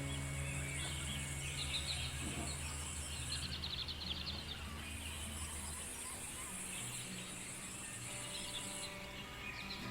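Outdoor nature ambience: birds chirping in short bursts and a high, steady insect buzz that stops a few seconds in, then resumes and stops again near the end, over a low steady drone that fades about halfway through.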